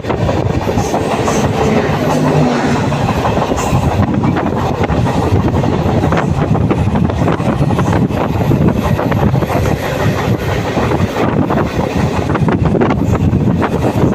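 Indian Railways superfast express train running on the track: loud, steady running noise of wheels on rails with frequent clacks.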